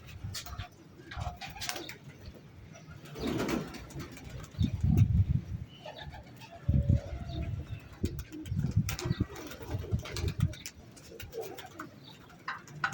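Pigeons cooing: a series of low coos.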